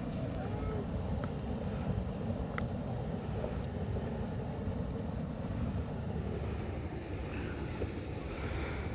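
A night insect's steady high-pitched trill, broken by brief gaps every half second to a second, over a steady low rumble.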